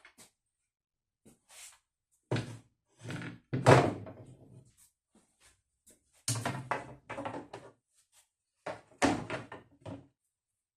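A run of irregular knocks and clunks, the loudest a little under four seconds in, with quick clusters of knocks later on.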